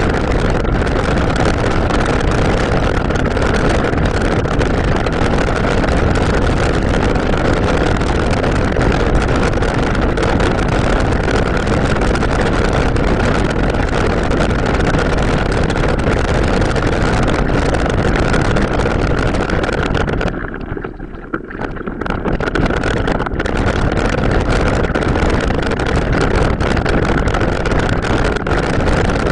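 Wind buffeting the microphone and riding noise from a mountain bike on an off-road trail, sped up four to five times into a loud, steady rush. It drops away briefly about twenty seconds in, then comes back.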